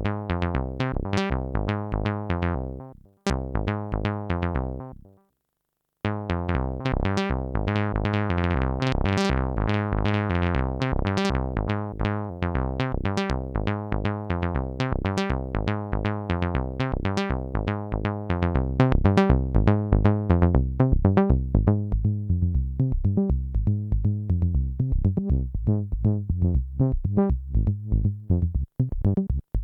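Roland SH-09 monophonic analog synthesizer playing a fast step-sequenced line of short repeating notes. The sequence fades and stops about 5 seconds in, starts again about a second later sounding brighter for a few seconds, and gets louder from about 19 seconds in.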